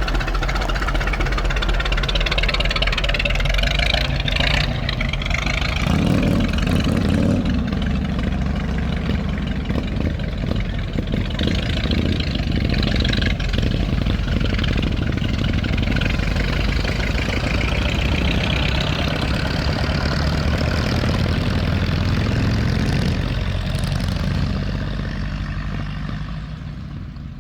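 Ford Model T four-cylinder engine running as the speedster is driven, with a steady low engine sound and a shifting rushing noise above it. It gets quieter over the last few seconds.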